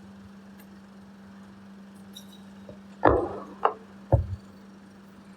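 A steady low hum, with a short scuffing thump about three seconds in and two sharp knocks over the next second.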